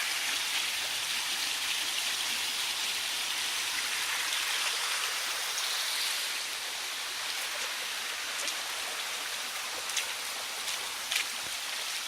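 Steady rush of river water running over stones at a small, low-flowing waterfall, easing a little about halfway through, with a few short sharp clicks near the end.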